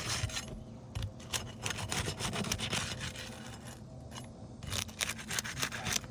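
Irregular scraping and rasping strokes with sharp clicks, from a tool worked under roof shingles to break their seal and free the nails, with a pause about four seconds in.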